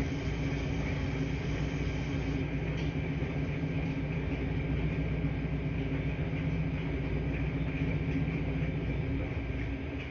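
Laundry-room ambience: laundry machines running with a steady low hum and an even rush of noise.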